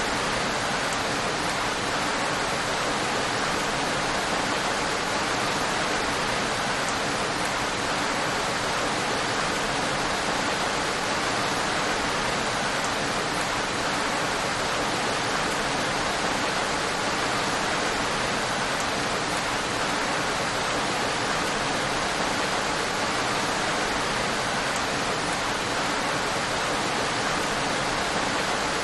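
Steady, even rain noise with no individual drops or thunder standing out, constant in level throughout.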